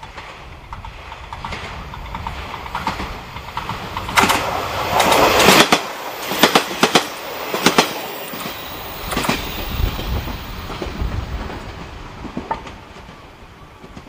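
A train passing close by on the line, its wheels clacking over the rail joints; the noise builds up, is loudest about four to six seconds in, then fades away.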